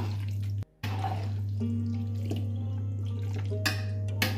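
Yogurt being stirred into chicken masala in a pot, a wet sloshing, over mild background music and a steady low hum. Two sharp clicks come near the end.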